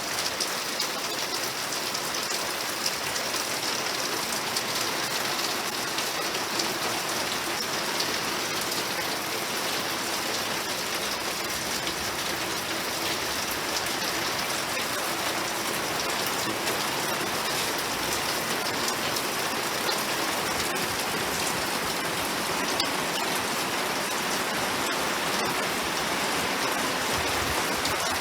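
Rain falling steadily, an even dense hiss with scattered sharp drop hits.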